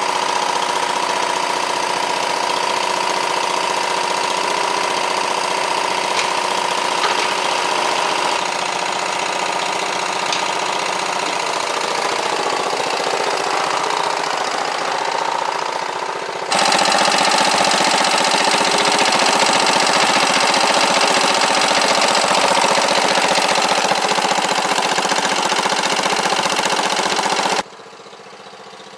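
Engine of a 1950s Garden All garden tractor running steadily. The sound changes abruptly twice: louder a little past halfway, then much quieter near the end.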